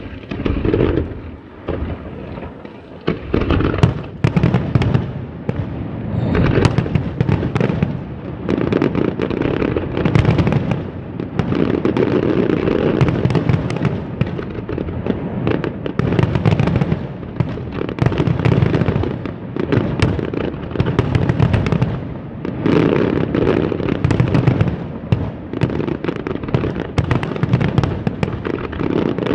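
Fireworks display going off in quick succession: repeated low booms and sharp crackling bursts one after another, with no real pause.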